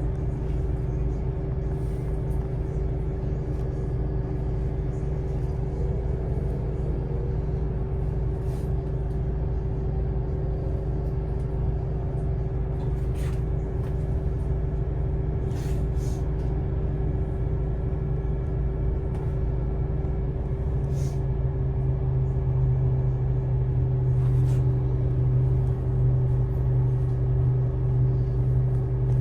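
A vehicle running, heard from inside during a ride: a steady low rumble with a steady drive tone, and a few short clicks or rattles. About two-thirds of the way through, the drive tone drops and grows louder.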